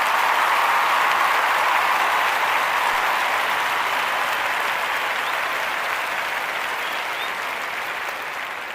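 Studio audience applauding, a dense steady clapping that slowly fades toward the end.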